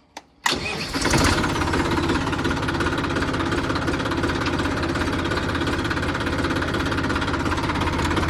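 Tractor diesel engine starting up about half a second in, then running steadily with a rapid, even pulse.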